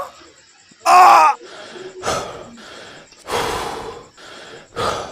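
A voice making short non-speech sounds: a brief pitched cry about a second in, then several breathy gasps.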